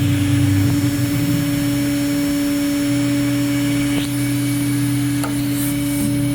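CNC wood router running, with a steady hum from its spindle and a lower rumble underneath that shifts slightly partway through, plus a few faint ticks.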